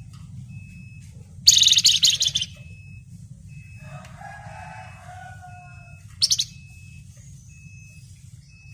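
A flamboyan songbird gives a loud, fast, scratchy rattling chatter for about a second, starting about a second and a half in, and a shorter burst after about six seconds. This is the dense 'ngebren nyerecet' rattle that bird keepers prize. Faint short peeps repeat steadily about once every second.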